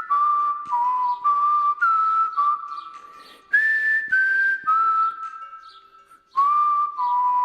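A whistled melody over music with a regular beat: held notes stepping up and down in pitch. It fades out about six seconds in and starts again just after.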